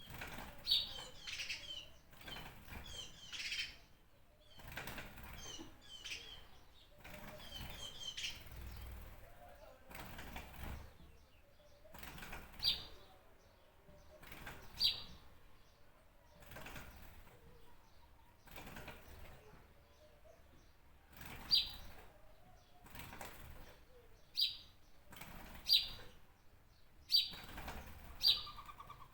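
Birds chirping and calling: a dense run of short, high chirps in the first few seconds, then single sharp, loud chirps every second or two, mixed with soft rustling noise.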